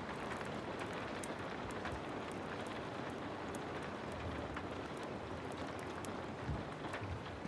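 Heavy rain falling steadily, with scattered sharp crackles from a wood fire and a dull low thump near the end.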